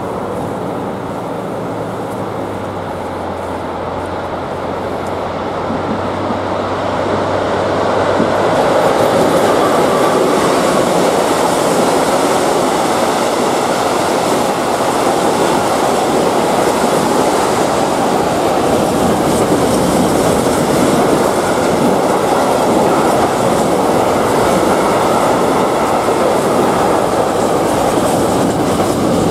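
A freight train of tank wagons rolls through a level crossing, its wheels clattering on the rails. It grows louder about eight seconds in as the wagons reach the crossing, then runs on steadily. The crossing's AŽD 71 warning bell rings alongside.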